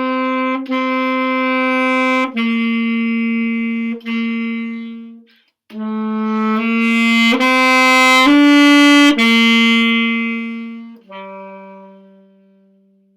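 Saxophone playing a slow melody of long, smoothly joined notes in two phrases. The second phrase swells louder towards its middle (crescendo), then dies away (diminuendo) onto a long low final note.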